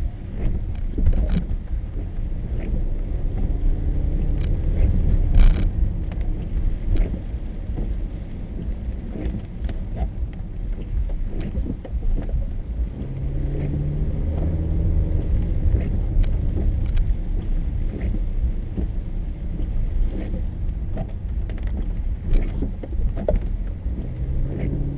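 Car driving, heard from inside the cabin: steady low road and engine rumble with scattered light clicks and taps, one sharper click about five seconds in.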